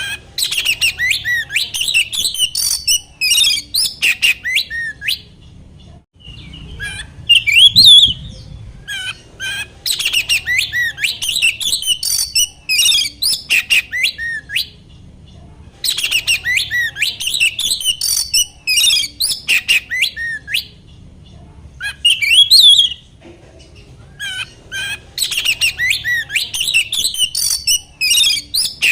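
Oriental magpie-robin (kacer) singing: rapid, varied whistles and scratchy chattering notes in bursts of a few seconds with short pauses between them. The same run of phrases comes round again about halfway through, a looped lure recording made to set off a kept magpie-robin.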